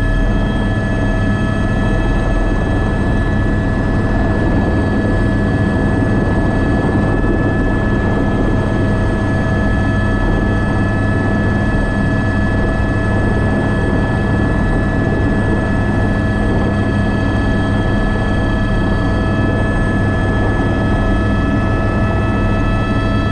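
Airbus AS350 B3 (H125) helicopter, its single turboshaft engine and rotor running steadily in flight, with a constant turbine and gearbox whine over the low rotor rumble.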